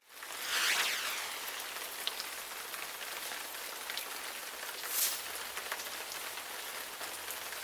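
Steady hiss like falling rain, fading in at the start, with a louder swell just under a second in and a brief brighter flare about five seconds in.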